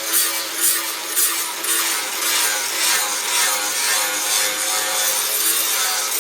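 Rhythmic back-and-forth rasping of a hand tool being stroked over the workpiece, about two strokes a second.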